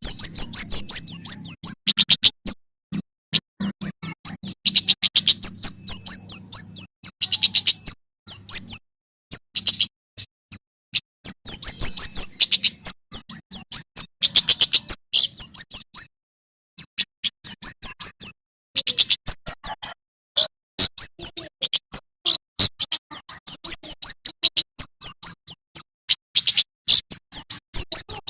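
Male prenjak keres (kemade jawa) singing hard: rapid runs of sharp, high, hooked chirps, several a second, repeated in long strings with brief pauses.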